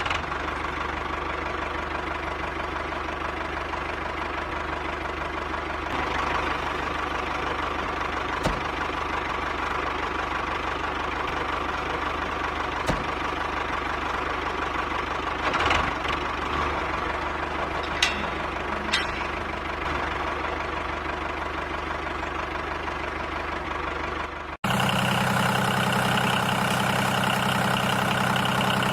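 A machine running steadily with an even, engine-like hum, with a few sharp clicks and knocks along the way. About three-quarters of the way through it cuts abruptly to a louder hum with a different pitch pattern.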